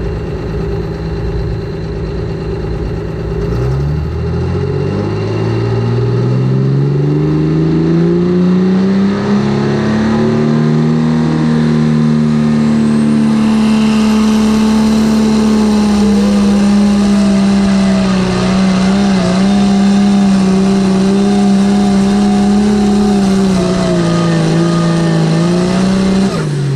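Air-cooled Deutz diesel engine of a light limited superstock pulling tractor under load on a pull, revving up over about six seconds. It holds at high revs with small wavers, then drops off right at the end.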